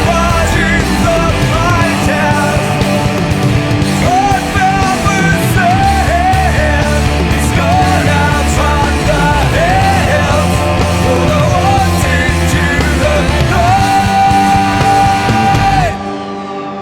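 Loud grunge rock band playing, with a high melodic line bending up and down over heavy drums, bass and distorted guitars. Near the end the band cuts off suddenly, leaving a quieter held chord ringing.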